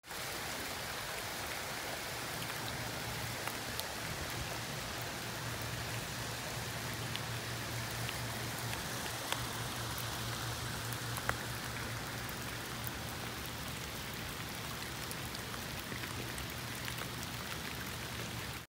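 Steady rain falling, with scattered sharper drop ticks over an even hiss, and a low steady hum beneath.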